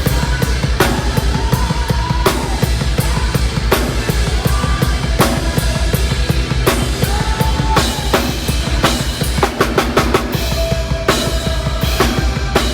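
Metal band playing live at full volume: a drum kit with a fast, steady bass-drum pulse and frequent snare and cymbal hits, under a dense wall of amplified band sound.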